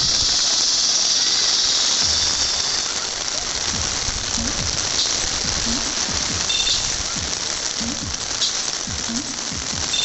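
Steady hiss of heavy rain and fountain spray falling on water and wet paving, with a few faint clicks and knocks.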